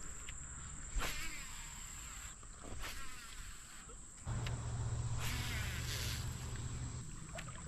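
Insects droning at one steady high pitch, with a few short rushing noises over it and a low steady hum that comes in a little past halfway.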